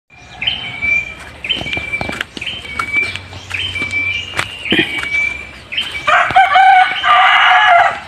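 Birds calling: a high whistled call repeated about once a second, each a quick rising note then a held tone, then a louder, longer call with several tones for the last two seconds. Scattered sharp clicks of twigs and leaves underfoot.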